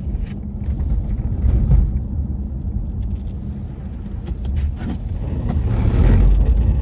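Wind rumbling on the microphone over outdoor street traffic, with a vehicle passing and swelling louder near the end.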